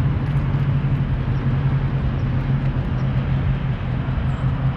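2020 Dodge Charger Scat Pack's 6.4-litre HEMI V8 idling steadily.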